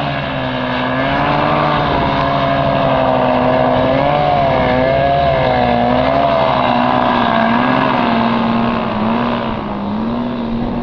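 Motor engines running steadily, two pitches that each waver up and down independently.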